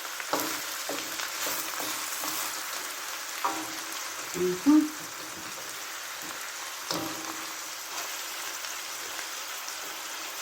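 Chicken with onions and garlic sizzling in a frying pan: a steady frying hiss, with occasional clicks and scrapes of the utensil stirring it. A brief louder sound comes near the middle.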